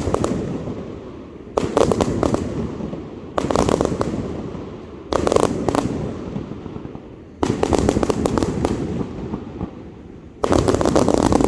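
A 260-shot consumer firework cake firing in volleys: six clusters of rapid sharp bangs with crackle, each starting suddenly and fading, about every two seconds.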